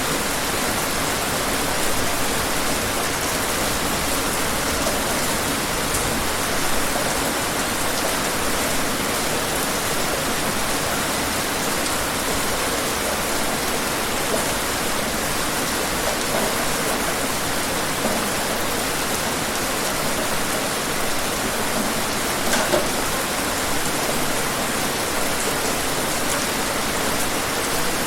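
Steady rain falling, a dense even hiss of drops with a few louder individual drips now and then.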